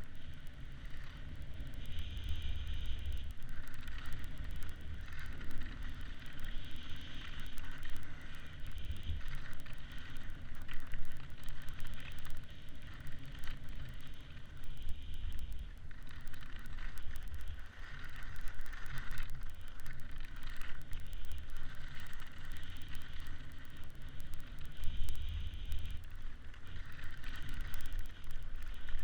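Wind rumbling on the camera microphone over a hiss of gliding, which swells and fades every few seconds.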